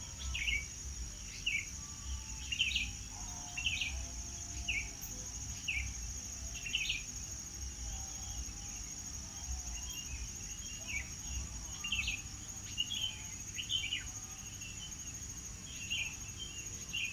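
Birds chirping, short downward-sweeping calls repeating about once a second, over a steady high-pitched insect drone and a low rumble.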